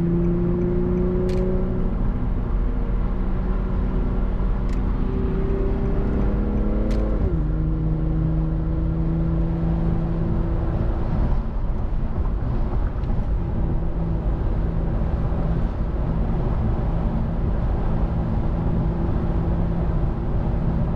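Infiniti G37's V6 through a Speed Culture Studios custom exhaust under way at highway speed. The engine note rises slowly, then drops suddenly about seven seconds in, as on an upshift, and settles into a steady cruising drone with wind noise.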